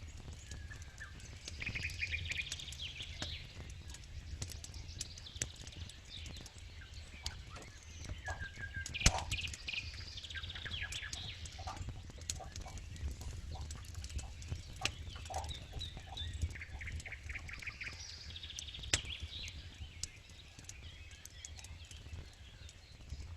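Campfire burning with steady crackling and sharp pops, one loud pop about nine seconds in. Bursts of rapid chirping sit behind the fire three times.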